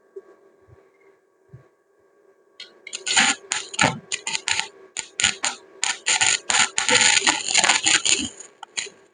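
Arc welding: the arc's crackle starts about two and a half seconds in, then keeps breaking off and restarting in short irregular runs, over a steady low hum. Two soft knocks come before it.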